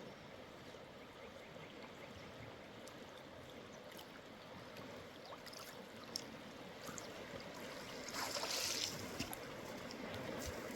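River water flowing steadily, with scattered small clicks and a louder rush of water noise for about a second around eight seconds in.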